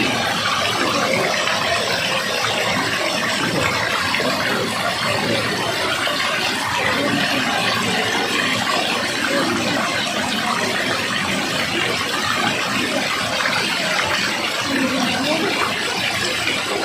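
Rushing water: a steady, even sound of flowing or falling water.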